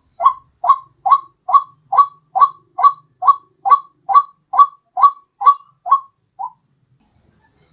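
White-breasted waterhen (ruak-ruak) call: a loud run of short rising notes, about two a second, breaking off about six and a half seconds in. It is the repetitive call used as a lure for this bird.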